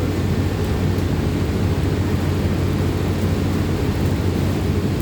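Steady low rumble of a city bus's engine and running gear, heard from inside the bus as it drives.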